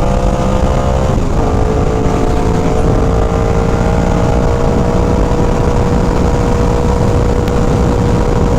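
Motorcycle engine running at a steady cruise, its note breaking briefly about a second in and then holding even, under heavy wind rumble on the rider's microphone.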